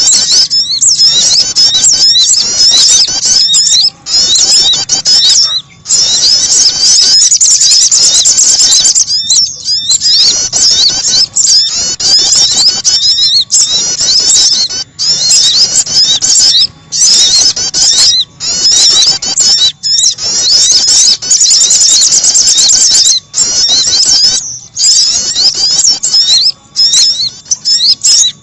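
Bird-lure recording of small songbirds, sogon and prenjak (prinia), played loud: a dense mix of rapid, high-pitched chirps and trills, broken by short pauses every couple of seconds.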